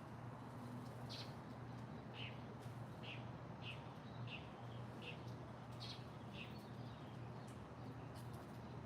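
A small bird chirping: a series of short high chirps, about one every half second, that stops a little past the middle. A faint steady low hum lies underneath.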